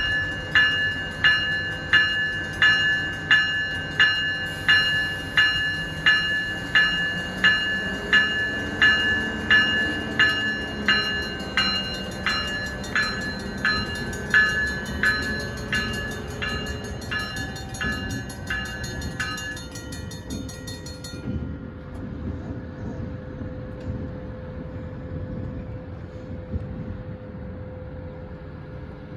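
A railroad bell ringing about twice a second over the rumble of a train. The bell fades and stops about two-thirds of the way through, leaving the rumble and a steady low hum.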